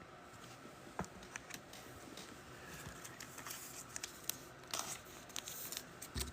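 Scattered light clicks and rustles of trading cards and plastic card holders being handled on a table, starting about a second in and coming more often in the second half.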